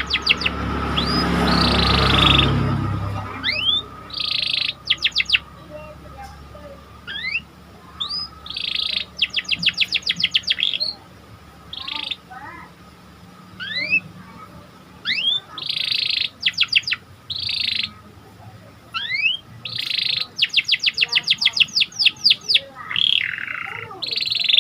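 Canary singing: repeated rising whistled notes, buzzy phrases and rapid trills of about ten notes a second. A burst of broad noise fills the first few seconds and is the loudest sound.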